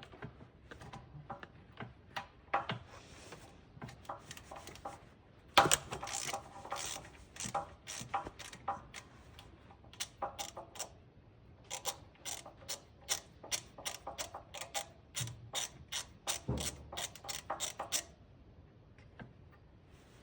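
Hand ratchet with an extension and deep-well socket clicking in short strokes, backing off an exhaust manifold bolt. It clicks in scattered strokes, with one sharp metal knock about five seconds in, then settles into a steadier run of two or three clicks a second before stopping near the end.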